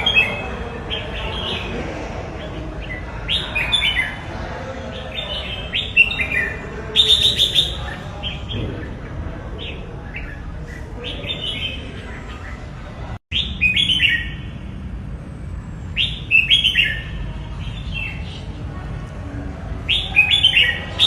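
Red-whiskered bulbul singing: short, bright whistled phrases repeated every second or two, over a steady low background rumble.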